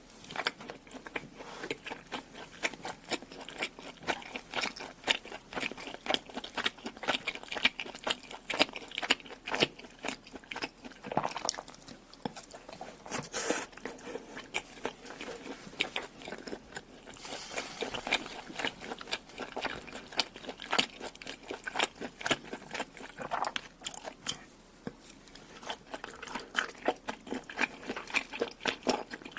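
A person chewing and biting food close to the microphone, with many rapid, irregular wet clicks and crunches throughout.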